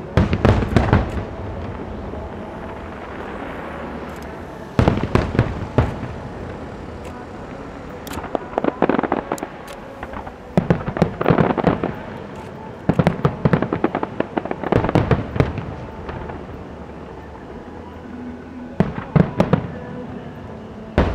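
Aerial fireworks shells bursting overhead in bunches of rapid bangs, with gaps of a few seconds between the bunches.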